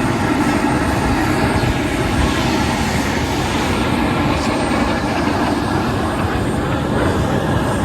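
Airplane flying overhead, its engine a steady, even drone.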